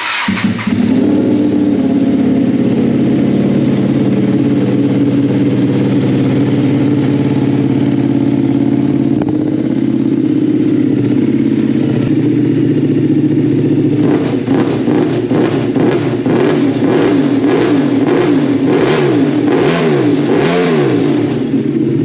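Ducati Panigale V2's L-twin engine breathing through a full SC Project titanium exhaust, just fired up from cold and running at a steady, loud idle. In the last several seconds the engine note rises and falls repeatedly.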